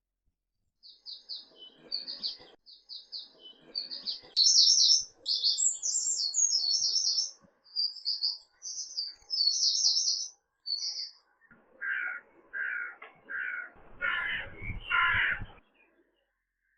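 Birdsong: a bird sings quick, high chirping phrases, then a bird gives a series of five lower, coarser calls near the end.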